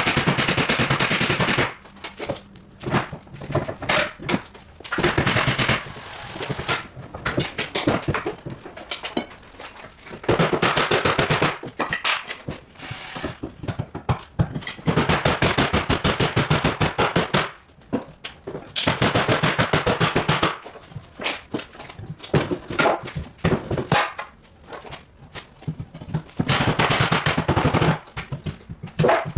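A hammering power tool running in bursts of a couple of seconds, stopping and restarting again and again, each burst a fast rattle of blows.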